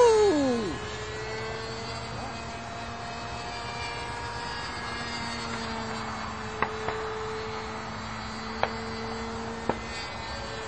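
Radio-controlled model airplane's OS .46 glow engine droning steadily in flight, its pitch dipping slightly now and then, with a few faint clicks in the second half.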